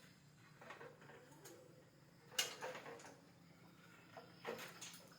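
A few scattered sharp clicks and knocks over a low background hum, the loudest about two and a half seconds in.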